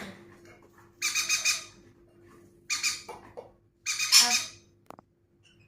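A pet conure squawking: three harsh screeches about a second apart, the last the loudest, then a short click.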